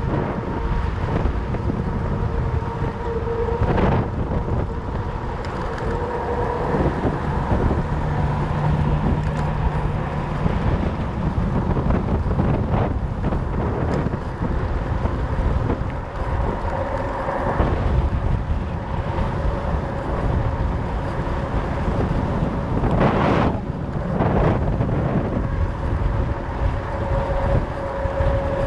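Wind buffeting the microphone and rolling noise from a fat bike's 4.4-inch Schwalbe Jumbo Jim tyres while riding, with a faint steady hum. A couple of sharp knocks come near the end.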